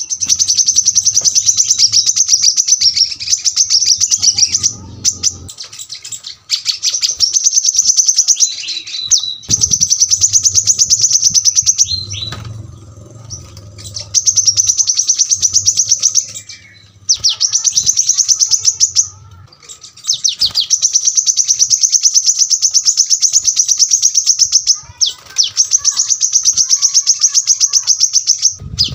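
Brown-throated sunbird (kolibri kelapa) singing its rapid, high-pitched 'tembakan' song: dense trills of fast repeated notes in bursts of two to five seconds with short breaks between them.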